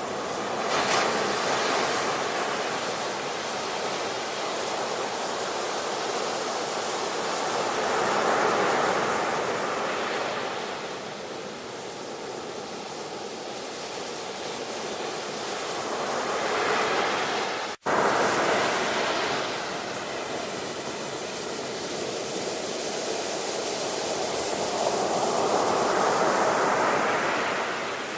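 Ocean waves breaking and washing up the shore, the surf swelling and ebbing about every eight seconds. The sound cuts out for an instant about two-thirds of the way through, then the surf carries on.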